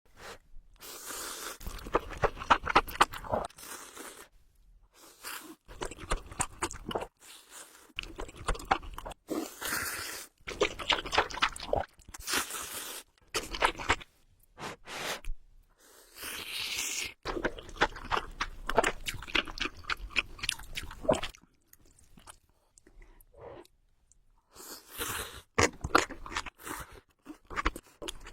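Close-miked eating sounds: a person chewing and crunching in bursts of a few seconds, with short pauses between.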